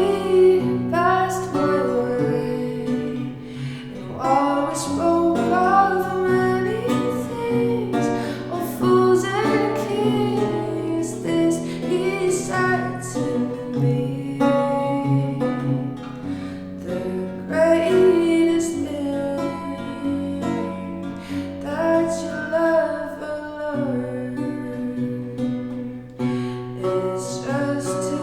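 Vocal song accompanied by a plucked archlute: a voice sings a melody over the lute's plucked chords and low, sustained bass notes.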